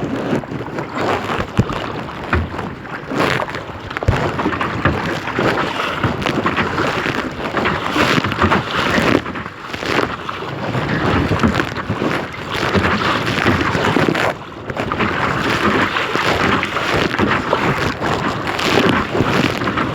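Wind buffeting the microphone over choppy water slapping and splashing against a kayak.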